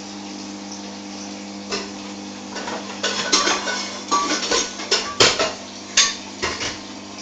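Budgerigar's beak tapping and pecking at a hard surface: a scatter of sharp clicks that grows busier about three seconds in and then stops, over a steady low hum.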